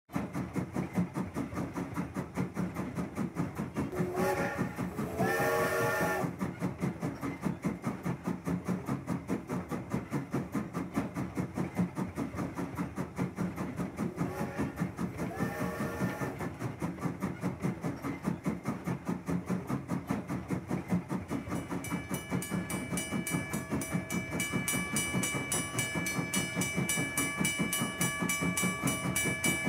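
Steam train running with a steady rhythmic chuff, its whistle blown twice for about two seconds each, about four seconds in and again about fifteen seconds in. A steady high-pitched ringing joins in after about twenty seconds.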